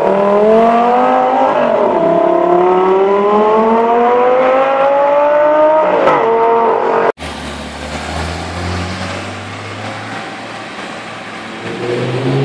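Supercar engine accelerating hard, its pitch climbing, dropping once about two seconds in as it shifts up, then climbing again. Just past halfway the sound cuts abruptly to a quieter, low engine rumble, which swells louder again near the end.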